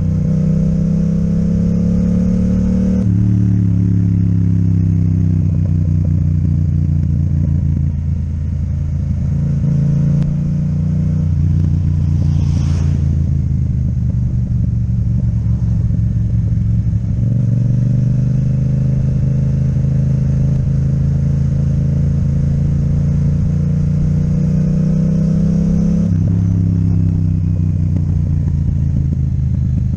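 Yamaha MT-07 parallel-twin with an Akrapovic exhaust, heard while riding, the engine note rising and falling with the throttle. The note climbs steadily through the second half and drops sharply at a gear change about 26 seconds in, then climbs again.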